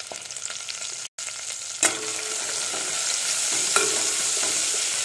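A tempering of mustard seeds, small onions, curry leaves and chillies frying in hot groundnut oil in a thick-bottomed pan, sizzling steadily while it is stirred. The sound breaks off for an instant about a second in and comes back louder, with two sharp clicks about two seconds apart.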